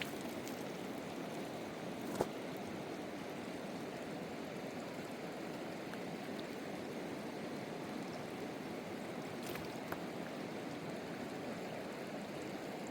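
A steady rushing noise, with a sharp click about two seconds in and a fainter one near ten seconds.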